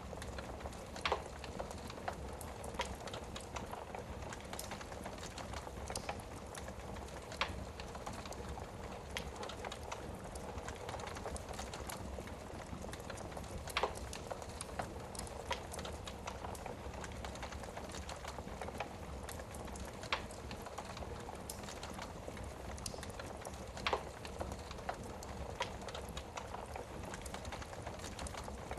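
Wood fire burning in a fireplace: a steady soft rush of flame with irregular sharp crackles and pops from the burning logs, a few louder pops every several seconds.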